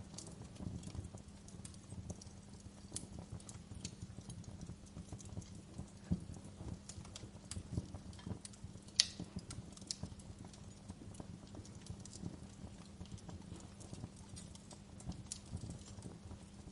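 Wood fire crackling in a fireplace: irregular pops and snaps over a low steady rumble, with one louder pop about halfway through.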